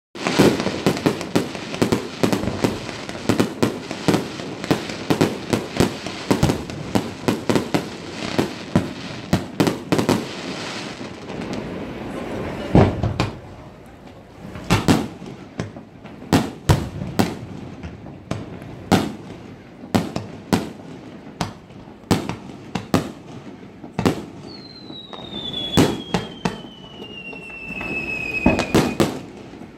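Fireworks display: a fast barrage of aerial shell bursts and crackle for the first ten seconds or so, thinning to single booms a second or two apart. Near the end a long whistle falls steadily in pitch over about four seconds.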